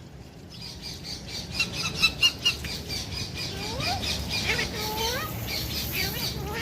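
Pet parakeet (Alexandrine or Indian ringneck) squawking: a quick run of short, shrill chirps, then several lower rising-and-falling calls.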